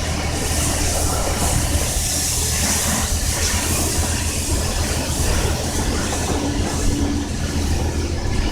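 High-pressure water spray from a coin-op car wash wand, hissing steadily against the car, over a steady low rumble.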